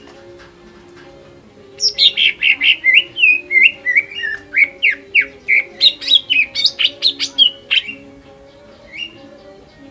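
Cucak ijo (green leafbird) singing a fast, loud run of varied chirps and slurred whistles for about six seconds, then a single call near the end.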